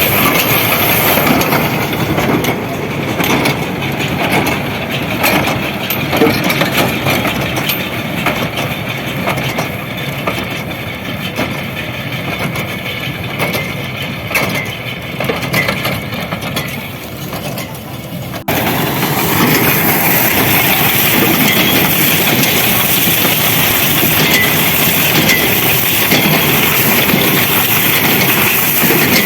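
Tractor engine running with farm machinery knocking and clattering. About 18 seconds in the sound changes abruptly to a steadier, louder engine noise.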